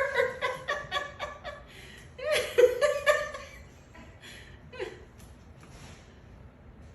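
Laughter in two short bouts of quick repeated pulses, the first right at the start and the second just past two seconds in, then a faint trailing one before it goes quiet.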